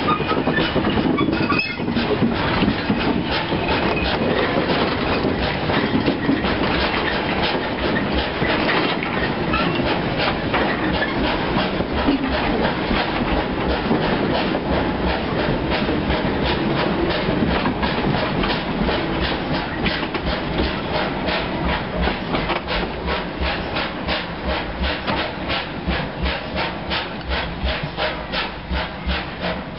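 Goods train of railway wagons rolling past on jointed track, the wheels clattering over the rail joints in a steady clickety-clack. The clicks grow fainter over the last few seconds as the brake van passes and the train moves away.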